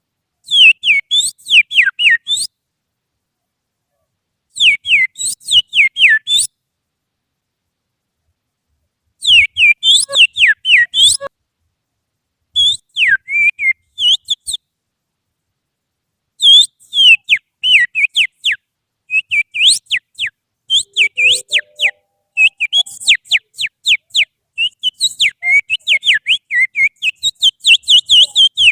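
Finger whistling imitating oriental magpie-robin (kacer) song: loud, rapid phrases of sharp downward-sliding whistled notes, several a second, separated by silent pauses. The phrases get longer and denser in the second half.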